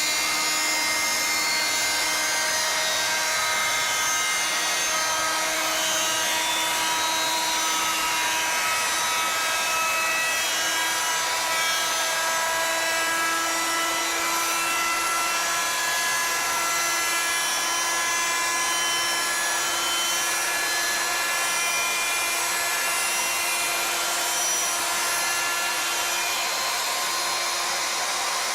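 CNC router spindle running steadily, a whine with the hiss of the router bit cutting a wooden spiral, its pitch wavering slightly as the load changes.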